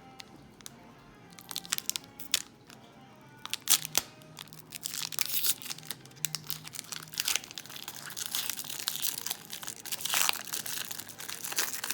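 Trading-card pack wrapper crinkling and tearing as it is opened, building into dense crackling from about five seconds in after a few scattered clicks. Quiet background music runs underneath.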